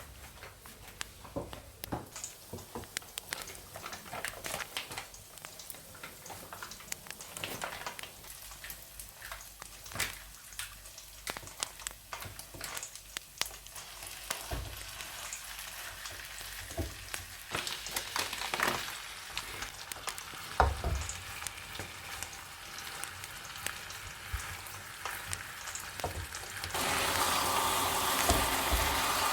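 Food frying in a pan, with a utensil clicking and scraping as it is stirred; the sizzling gets much louder near the end.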